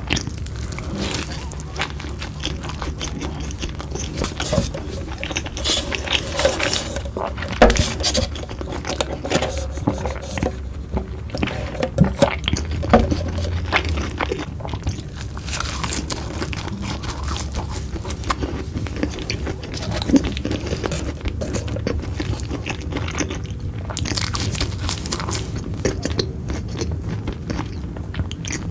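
Close-up eating sounds: irregular chewing and crunching with scraping and small clicks of handling food.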